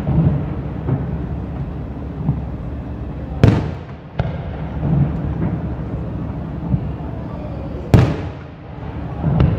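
Fireworks display: aerial shells bursting, with two loud bangs about four and a half seconds apart and a few smaller cracks between them.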